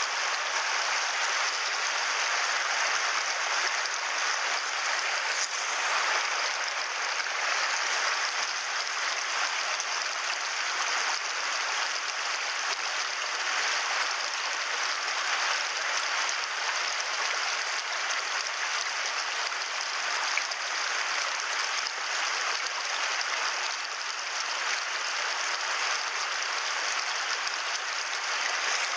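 Mountain stream flowing: a steady, even rushing of water.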